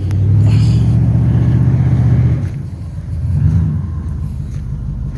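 A large vehicle's engine running close by, a loud low drone for the first two and a half seconds that then drops away, with a short swell about a second later.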